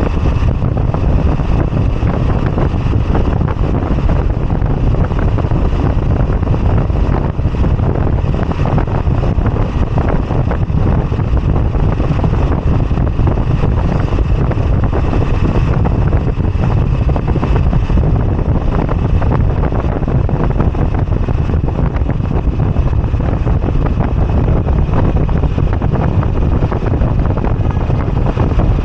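Moto Guzzi V85TT motorcycle on the move: steady wind rush on the microphone over the low running of its air-cooled transverse V-twin, level and unbroken throughout.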